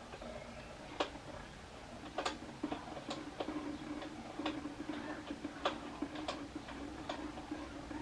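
Old fork oil dripping slowly out of a Kawasaki ZX9R fork leg into a catch container, giving irregular ticks about once or twice a second over a faint steady hum.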